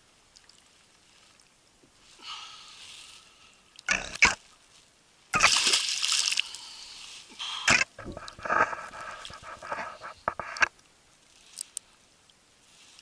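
Water splashing beside a kayak: a couple of sharp knocks about four seconds in, then a loud splash lasting a couple of seconds, followed by choppier splashing that dies away.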